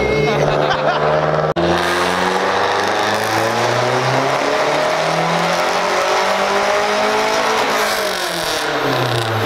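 Mazdaspeed3's turbocharged 2.3-litre four-cylinder making a full-throttle pull on a chassis dyno. The engine note climbs steadily for about six seconds, then falls away near the end as the throttle closes.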